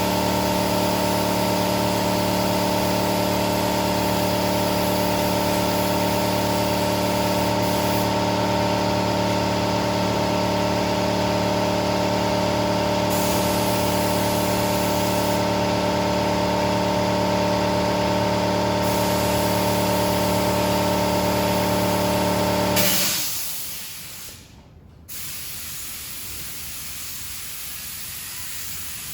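Paint spray gun hissing over a steadily running air compressor motor while the hood and top are sprayed. About 23 seconds in the compressor hum stops abruptly, leaving only a quieter, even hiss.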